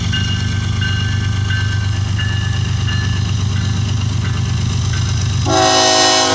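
Diesel locomotive prime movers running with a steady low drone, with grade-crossing bells dinging. About five and a half seconds in, a locomotive air horn sounds a loud chord of several notes.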